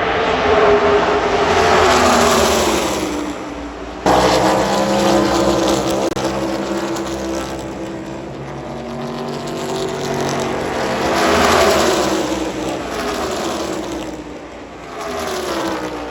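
NASCAR Cup Series cars' V8 engines running at full throttle as packs of cars pass by, the pitch dropping as each pack goes past. The sound jumps in abruptly about four seconds in, and another loud pass comes around eleven seconds in.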